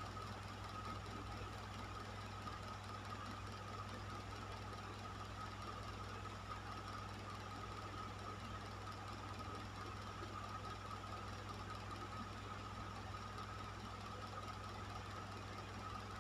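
Electric fan running steadily: a low hum and a thin steady whine over an even rush of air.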